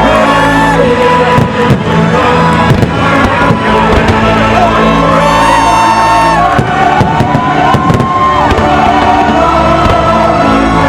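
Loud show music over fireworks bursting, with a crowd cheering and whooping.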